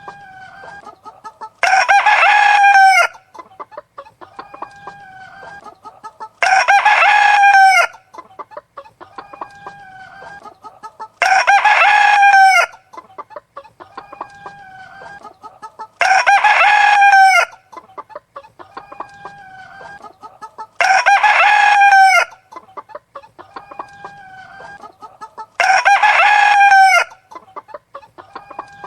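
A rooster crowing six times, evenly spaced about five seconds apart, each crow about a second and a half long; between the crows, softer clucking from chickens.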